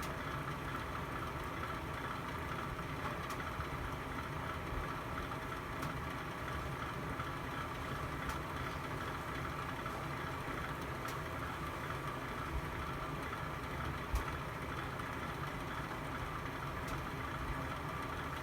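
Fire burning in a fireplace: a steady low rushing with a faint sharp crackle every two to three seconds, one pop louder than the rest about fourteen seconds in.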